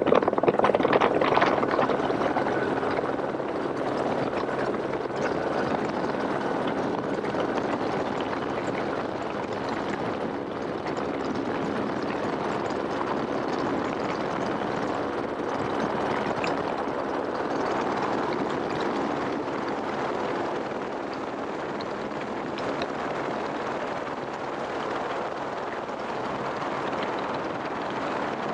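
Helicopter in flight: a steady drone of rotor and engine, a little louder in the first couple of seconds.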